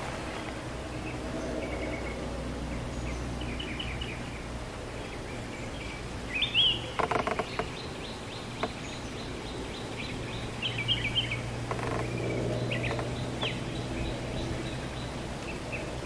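Bulbul calling in short chirped phrases scattered through, over steady background noise and a low hum. The loudest calls come about seven seconds in, mixed with a quick run of sharp clicks.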